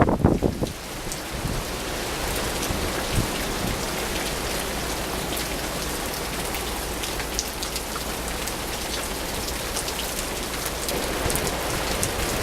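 Rain falling steadily in a storm, an even hiss with scattered drop ticks. A wind gust buffets the microphone at the very start, then dies away.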